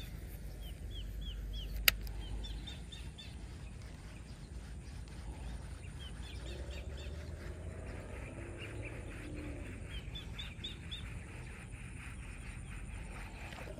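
A bird calling in repeated runs of four or five quick chirps, several times over, above a low background rumble; a single sharp click about two seconds in.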